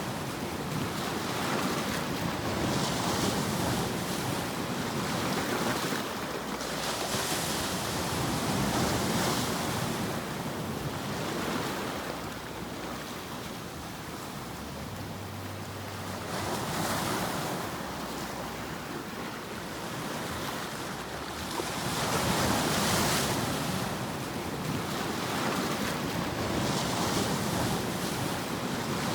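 Ocean waves breaking and washing in: a steady rushing noise that swells and falls back every few seconds.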